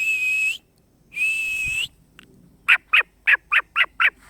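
High whistled calls: two steady notes of about half a second each, then a quick run of six sharply falling chirps, about four a second.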